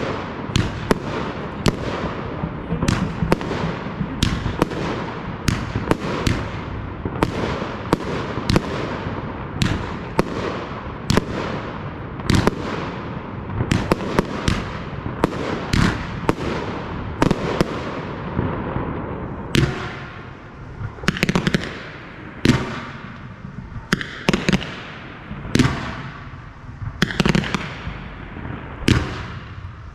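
Aerial fireworks display: a dense, rapid run of bangs, several a second, each with a trailing echo. About two-thirds of the way through it thins to single bangs roughly a second apart.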